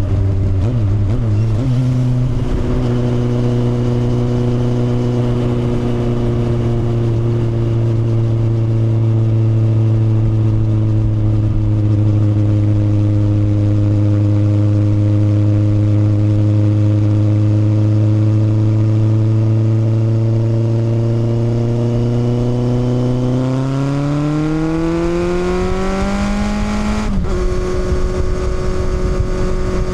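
Kawasaki motorcycle engine at a steady cruising pitch. About three-quarters through it revs up for a few seconds, then the pitch drops sharply at a gear change and holds steady again.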